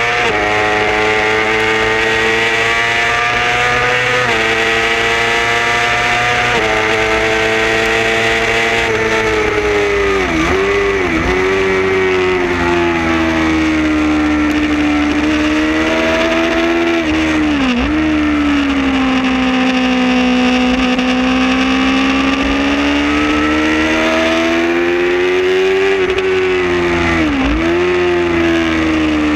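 Supersport racing motorcycle's engine heard from on board, running hard at high revs with its pitch dipping sharply at each gear change and swelling and falling through the corners, over a steady rush of wind and road noise.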